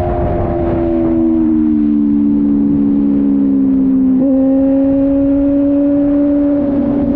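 Kove 450RR single-cylinder motorcycle engine running under way, its note easing slowly down. About four seconds in the pitch changes abruptly to a higher note that then holds steady.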